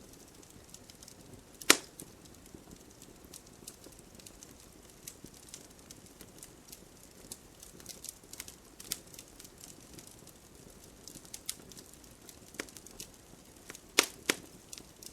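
Campfire crackling: scattered sharp pops and snaps over a faint hiss, with one loud pop about two seconds in and two more close together near the end.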